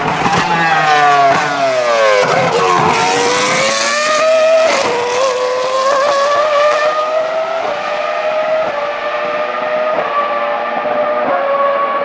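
Jaguar R5 Formula 1 car's 3.0-litre naturally aspirated Cosworth CR-6 V10 engine: the pitch falls in several steps as it downshifts, then it accelerates hard with upshifts. Its high-pitched sound thins out over the last seconds.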